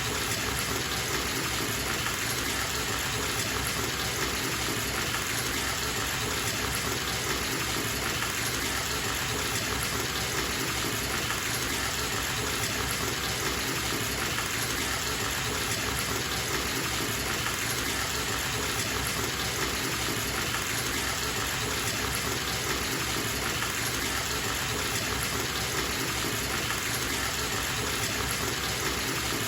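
Tap running into a bathtub as it fills: a steady, unbroken gush of water.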